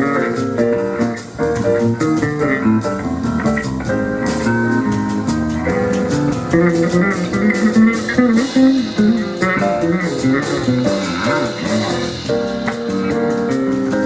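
Live jazz band playing an instrumental passage: a busy run of short, quick notes over a walking bass line, with steady cymbal or percussion ticks.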